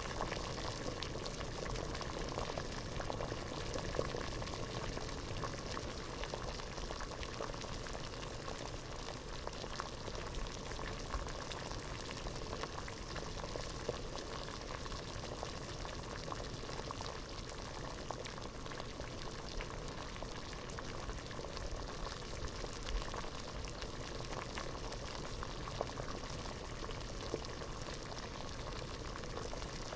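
Water boiling at a steady rolling boil in a pot, a continuous bubbling with many small pops and now and then a louder one.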